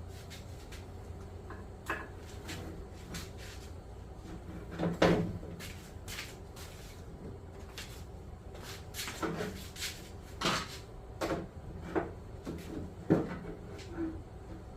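Irregular clicks, taps and knocks of hands and tools working on an exercise bike's housing while trying to get a fastener started, with a sharper knock about five seconds in and another near the end.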